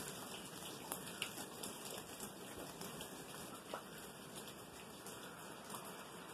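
Light rain falling steadily, a faint even hiss with a few separate drops ticking close by.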